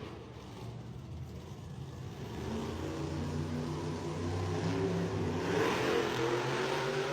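Monster truck engine running and revving, its pitch rising about five and a half seconds in.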